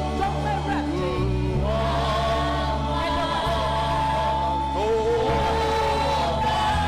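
Gospel praise and worship music: a choir singing sustained melodic lines over held keyboard and bass chords.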